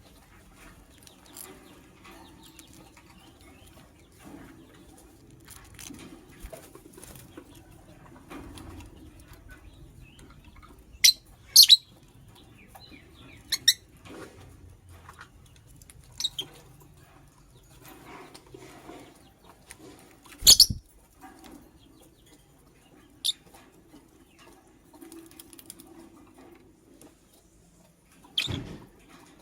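Pet lovebird moving about with wing flutters and several short, sharp chirps spaced a few seconds apart.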